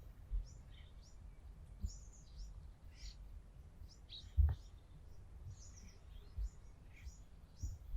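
Small birds chirping, many short high calls in quick irregular succession. Dull low thumps come through now and then, the loudest about four and a half seconds in.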